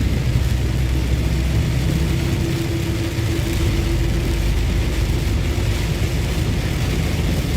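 Diesel engine of a semi tractor-trailer running steadily at highway cruise, with a low drone and road rumble, heard inside the cab. An even hiss of heavy rain and tyre spray on the wet road runs under it.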